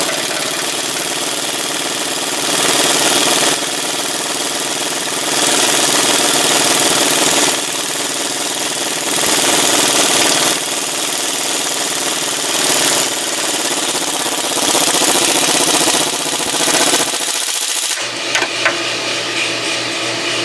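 Impact wrench hammering continuously on the harmonic balancer bolt, drawing the balancer onto the crankshaft, with several louder surges as the trigger is squeezed harder. It stops about 18 seconds in, leaving a lower steady hum.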